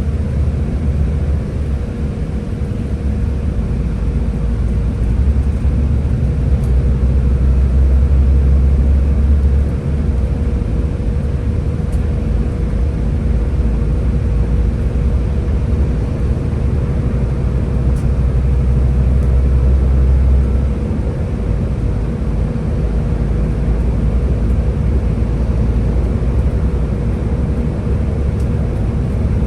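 Scania Higer A30 bus's diesel engine running with a deep low rumble and a steady whine over it, swelling louder twice, then easing back each time, as under acceleration.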